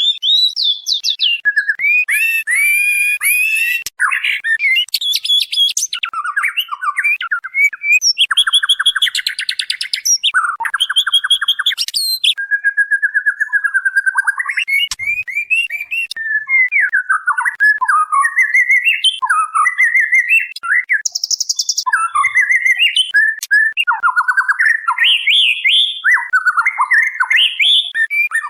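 White-rumped shama female calling without pause in quick, varied whistled phrases, mixed with a few harsh buzzy rattles. This is the female's call to a male, the kind played as a lure to set a male singing.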